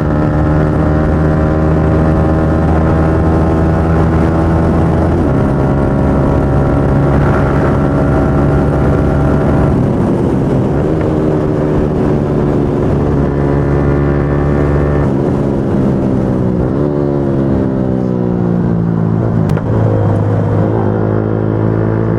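Motorcycle engine running under way at steady revs, its note stepping at a few gear changes. In the last few seconds the pitch falls steadily as the bike slows.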